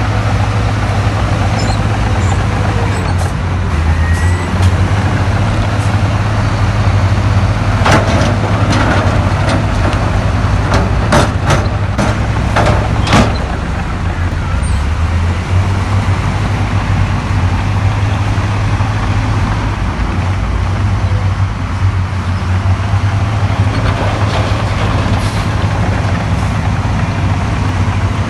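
Heavy earthmoving machine's diesel engine running steadily under load, with a sharp knock about eight seconds in and a quick run of sharp knocks a few seconds later.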